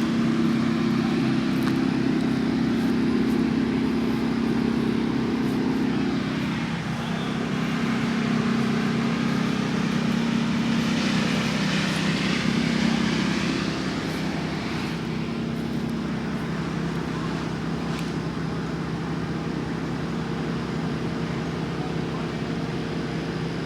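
Steady low engine drone with road noise, like riding in a moving vehicle, swelling a little in the middle before settling.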